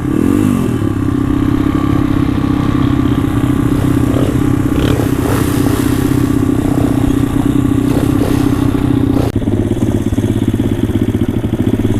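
Pit bike's single-cylinder engine running steadily at a raised idle, with a few clattering knocks. About nine seconds in it drops to a lower, pulsing idle.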